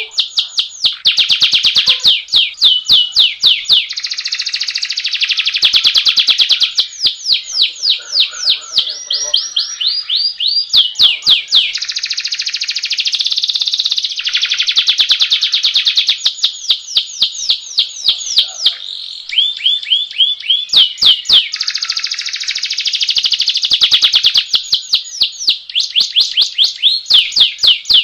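Domestic canary singing a long rolling (ngerol) song: runs of repeated sweeping notes, some slow and some very fast, alternating with dense rolling trills, without a break.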